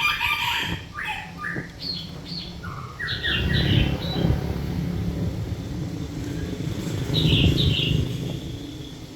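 Small birds chirping in short paired notes throughout, over a louder low rumble that builds up about three seconds in and fades near the end.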